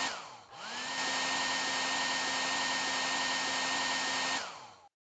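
Broken hair dryer's fan motor whirring with a steady whine; it winds down at the start, spins back up about half a second in, then winds down again near the end.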